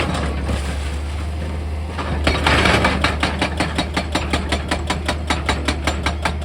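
Heavy machine's diesel engine running steadily with a low hum, over a rapid train of sharp knocks at about five a second. The knocks ease off between about half a second and two seconds in, then start again.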